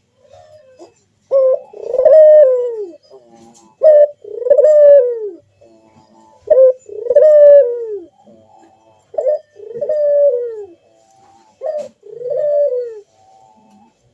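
Puter (Barbary dove) cooing: five loud calls about two and a half seconds apart, each a short note followed by a longer coo that falls in pitch.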